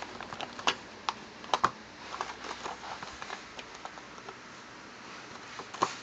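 A kitten's claws and paws scratching and tapping at a cardboard box in quick, irregular clicks, with a few sharper knocks: one under a second in, two together at about a second and a half, and one near the end.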